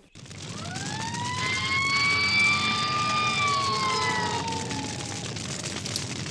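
Siren sound effect: one long wail that rises, holds and then slowly falls away, over a steady vehicle rumble.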